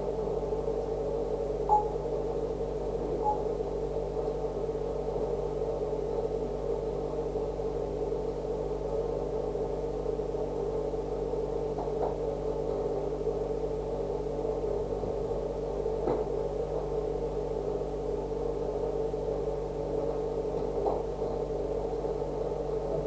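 Steady electrical or appliance hum made of several fixed tones, with a few faint clicks scattered through it.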